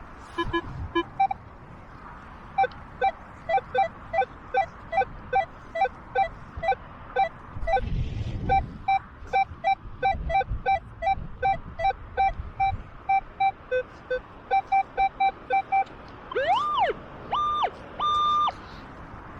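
Metal detector's audio: a run of short beeps, about two a second, mostly at one mid pitch with some lower and higher ones. Near the end comes a tone that sweeps up and back down, then two longer, higher held tones. Wind rumbles on the microphone underneath, strongest about eight seconds in.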